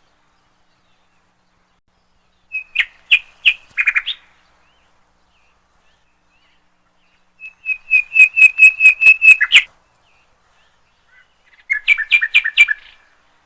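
A bird calling in short bursts of rapid, evenly repeated chirps: three phrases, about a second and a half to two seconds each, the middle one the longest, with quiet gaps between them.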